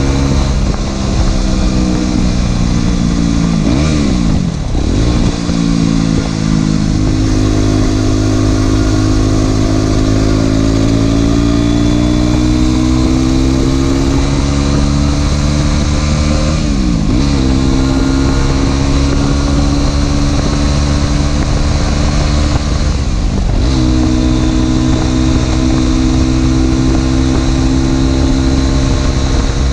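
Aprilia SX 125 supermoto's single-cylinder 125 cc four-stroke engine, breathing through an Arrow exhaust with the dB killer removed, running loud under way. Its pitch rises and falls slowly, and it breaks briefly three times as at gear changes.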